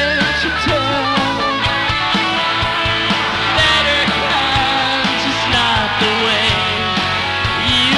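A live rock band playing: electric guitar lines bending in pitch over bass and steady drum hits.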